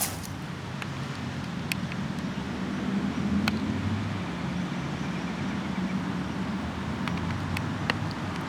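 Motor vehicle engine running steadily with a low hum, with a few light clicks over it.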